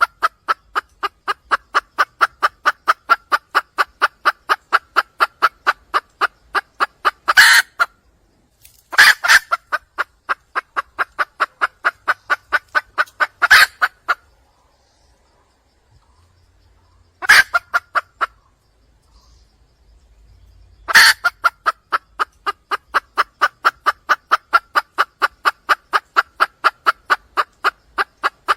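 Female red junglefowl (wild hen) calling for a mate: long runs of rapid clucks, about four a second, each run set off by a louder note. There are four runs, with a short silent pause about halfway through.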